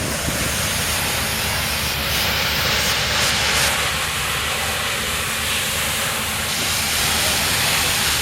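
Steady hissing rush of water spraying from hoses onto a mud truck, over a low engine rumble.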